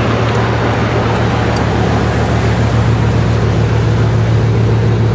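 Bugatti Veyron's quad-turbo W16 engine running as the car rolls slowly past, a steady low drone with no revving.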